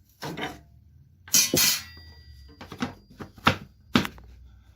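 A series of metallic clanks and knocks from fitting a 7 1/4-inch circular saw blade onto a table saw's arbor: about five short knocks, with a louder rattling clatter about a second and a half in.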